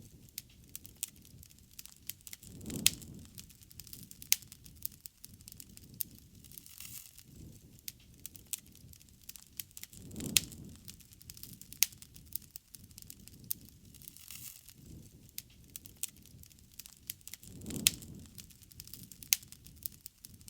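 Wood bonfire crackling, with irregular sharp pops and snaps. The lower sound of the fire swells three times, about seven and a half seconds apart.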